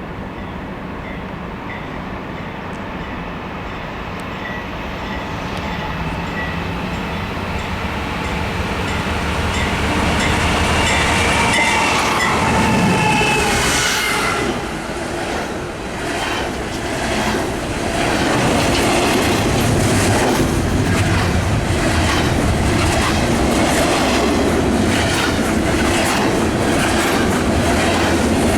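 Diesel-hauled train approaching and passing: its locomotive engine sound grows steadily louder, drops in pitch as it goes by about halfway through, then the cars' wheels click in a steady rhythm over the rail joints.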